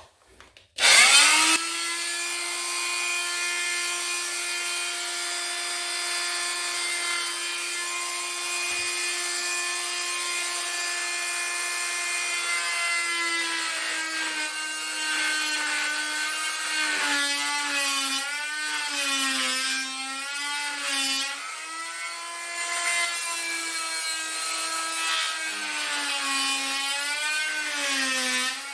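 Electric power saw starting up about a second in and running at a steady high whine, then cutting into wood from about halfway on, its motor pitch dipping and recovering again and again under load.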